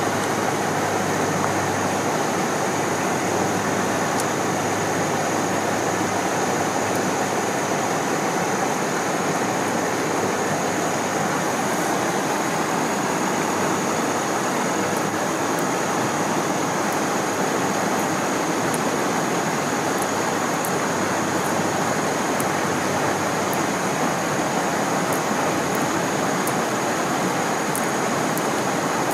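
Steady rush of stream water tumbling from a waterfall, an even wash of noise with a thin steady high tone above it.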